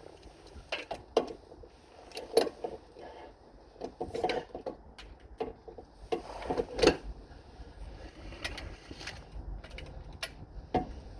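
Socket ratchet on the oil filter housing, worked in short cramped strokes: irregular clicks and metal knocks. Wind rumbles on the microphone underneath.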